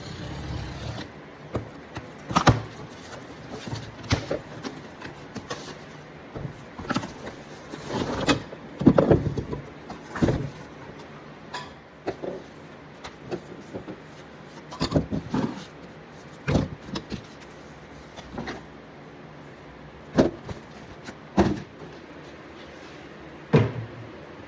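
Irregular knocks, clacks and scrapes of plastic parts being handled as a Duststopper Pro cyclone lid is fitted onto a plastic bucket, with the busiest clatter about a third of the way in.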